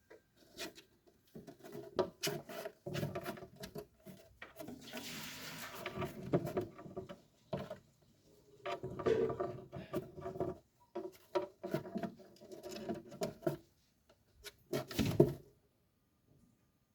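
An African grey parrot scratching, tapping and rustling about inside a wooden closet: irregular clicks, knocks and scrapes on wood, with a longer rustling stretch about five seconds in and a sharp knock near the end.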